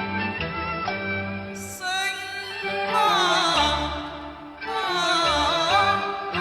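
Cantonese opera music: instrumental accompaniment over a low pulsing beat, then from about two seconds in a singer holds long, wavering notes that glide down in pitch, breaking off briefly and starting again.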